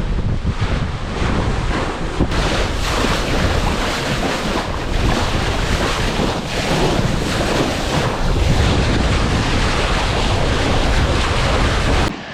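Wind buffeting the microphone over the rush of waves on a sailboat under sail in open sea. The sound cuts off suddenly near the end.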